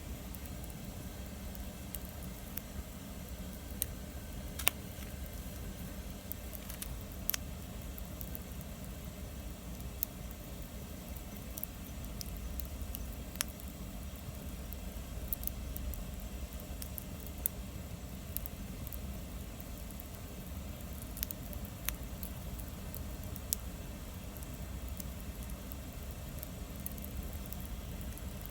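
Wood fire burning, crackling with irregular sharp pops and snaps over a steady low rushing sound; the loudest snap comes about five seconds in.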